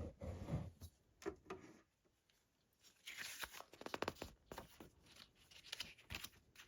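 Paper booklet handled and its pages leafed through: faint rustles and crinkles in short spells, with a brief lull about two seconds in.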